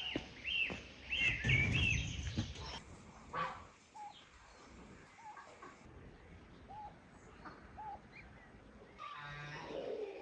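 Birds chirping with short, repeated calls, then quieter scattered calls, and a cow starting to moo near the end.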